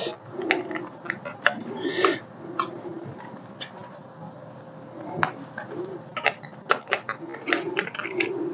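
Metal shrinker working a sheet-steel patch edge: its jaws close again and again in a string of sharp clicks and duller clunks at irregular intervals as the flange is stepped along and shrunk.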